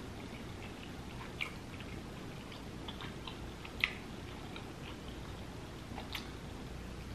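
A person chewing king crab meat in cheese sauce, close to the microphone: a few soft, wet mouth clicks over a steady faint hiss, the sharpest about four seconds in.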